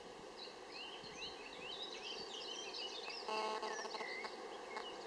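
Birds singing: a quick run of short whistled notes rising and falling, with a brief harsh call a little past three seconds in, over a faint steady drone.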